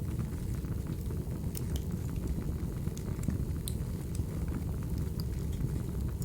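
Recorded wood fire burning as background ambience: a steady low rumble with scattered sharp crackles and pops.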